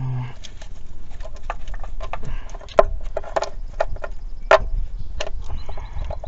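Irregular clicks and knocks of hand tools and parts being worked on a Jeep 3.7 V6 engine during an intake teardown, with two sharper knocks about three and four and a half seconds in.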